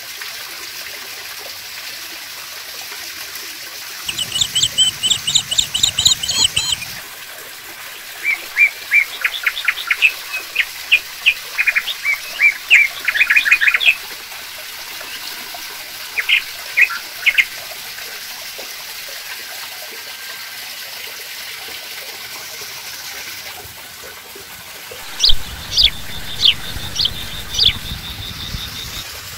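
Bursts of rapid, repeated bird chirps, the longest run from about four to fourteen seconds in, with shorter ones around seventeen seconds and near the end. Under them, water trickles steadily from a small cement rock waterfall into its pond.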